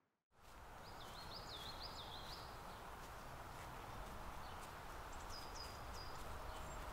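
Woodland ambience fading in after a moment of silence: a faint steady hiss with a bird singing a short run of repeated, wavering high notes, and a few brief high chirps later on.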